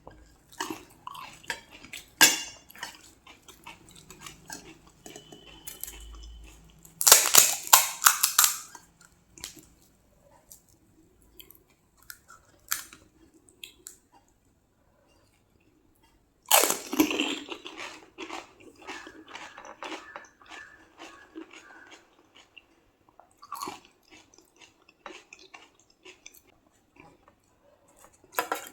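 Close-up chewing and crunching of crispy panipuri puris, with small crackles throughout and two loud crunchy bites, about seven and about sixteen seconds in.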